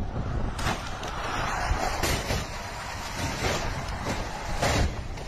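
Steady rushing noise of vehicles on a road, with a few faint short knocks.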